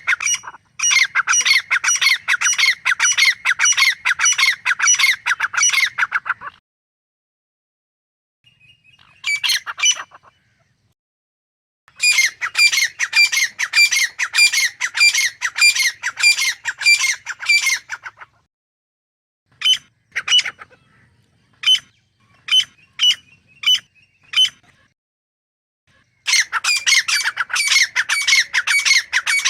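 Grey francolin calling: loud bouts of harsh repeated notes at about two a second, broken by pauses, with a slower string of single separate notes in the middle.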